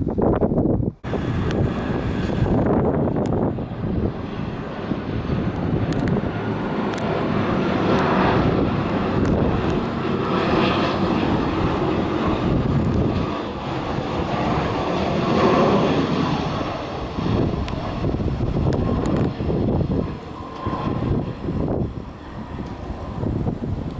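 US military aircraft flying low overhead, its engine noise loud and sustained, swelling and easing as it passes.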